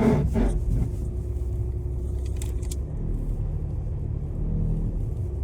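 Volkswagen Passat 2.0 L diesel car on a test drive: a steady low engine and road rumble, with a faint steady hum and a few light clicks about two and a half seconds in.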